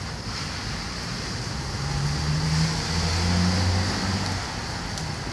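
Steady rain hissing down, with a low vehicle rumble that swells about two to four seconds in and fades, like a car passing on a wet road.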